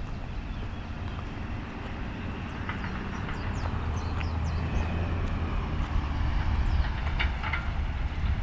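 A train running on rails: a low rumble that grows steadily louder, with scattered clicks and short high chirps over it.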